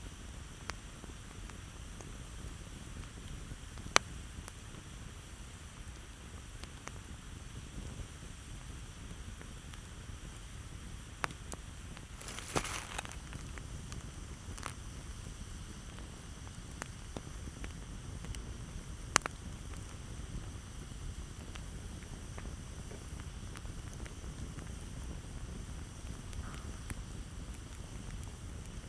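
Campfire burning with a low steady rumble and scattered sharp pops and crackles of burning wood, the loudest pops about four seconds in and again past the middle, and a quick run of crackles near the middle.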